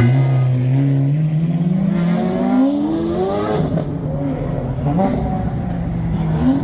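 Car engine accelerating hard, its pitch climbing steadily for about three and a half seconds. A brief break follows, like a gear change, and the engine pulls and rises again near the end.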